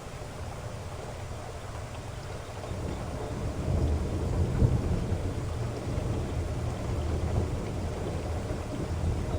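Heavy rain falling steadily, with a low rumble of thunder that swells about three seconds in and rolls on to the end.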